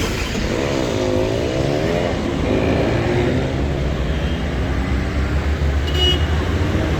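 City street traffic: vehicle engines running with a steady low rumble. A wavering pitched sound rises and falls about a second in, and a short high beep sounds near the end.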